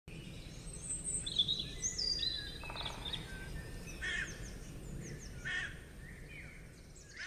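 Several birds chirping and calling in short, quick, high notes, some sliding up or down in pitch, over a steady low background rumble.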